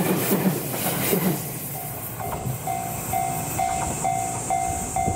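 The tail of a JR West 227 series 500 electric train passing, its wheels clattering over the rail joints, dies away about a second and a half in. Then a level crossing's electronic warning bell is heard ringing about twice a second, with a steady high hiss behind it.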